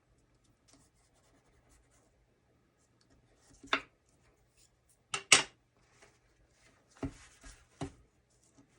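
Card stock and paper being handled: a few short rustles and scrapes with quiet between, the loudest a little past five seconds in.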